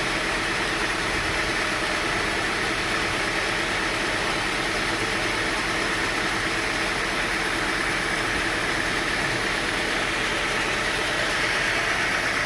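Sawmill machinery running: a steady mechanical noise that holds the same level and pitch throughout.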